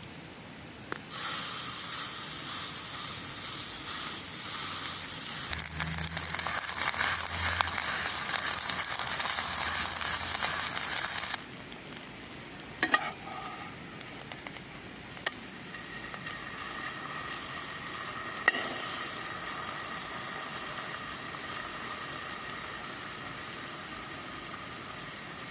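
Food sizzling as it fries in a hot pan. The sizzle starts about a second in and drops abruptly to a quieter sizzle about halfway through, with a few short clicks.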